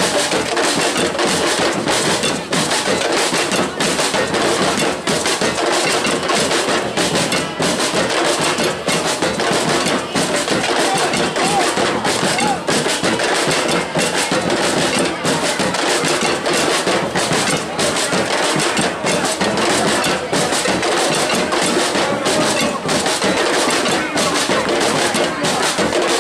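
Drums playing a steady, driving beat, loud and continuous, with voices mixed in.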